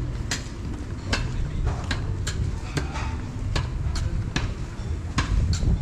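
Footsteps at a walking pace, sharp clicks roughly once or twice a second, over a steady low rumble.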